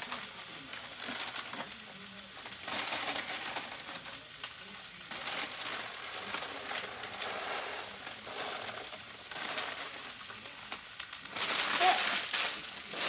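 Vegetables sizzling as they stir-fry in a pan. The sizzle swells louder several times, most strongly about a second before the end.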